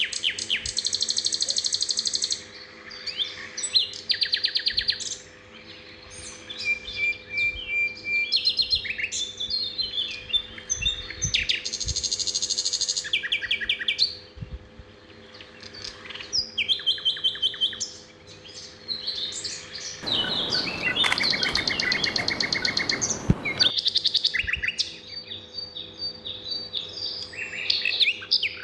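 Several songbirds singing and calling: rapid trills and quick runs of high chirps, one after another. About two-thirds of the way through comes a louder, harsher, buzzier stretch lasting a few seconds, and a faint steady hum sits underneath.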